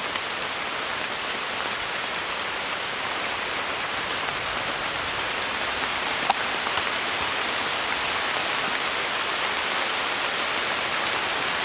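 Steady hiss of rain falling on forest foliage, growing slightly louder, with one faint click about six seconds in.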